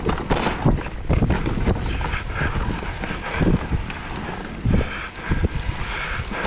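Whyte E-180S electric mountain bike riding over a rough trail: tyre rumble with frequent knocks and rattles from bumps, and wind buffeting the microphone.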